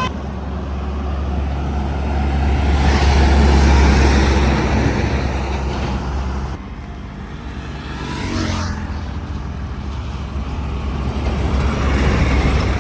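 Heavy Tata trucks driving past on a highway one after another, their diesel engines and tyres making a deep rumble that swells as each passes and fades away. The sound drops off abruptly past the middle. A falling whine follows as another truck goes by, then the next one builds up near the end.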